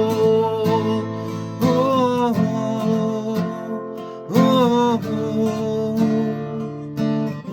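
Acoustic guitar strumming an instrumental break in a song, with a held melody note that slides in pitch about two seconds in and again about four and a half seconds in.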